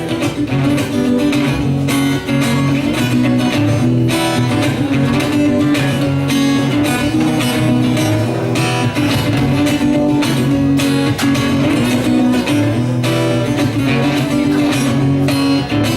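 Acoustic guitar strummed briskly in an instrumental break between sung verses, without vocals.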